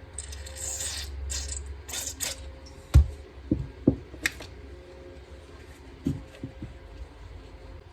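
Several short bursts of hiss, then a run of sharp knocks and clinks from small hard parts being handled and set down, the loudest about three seconds in. A faint steady hum runs underneath.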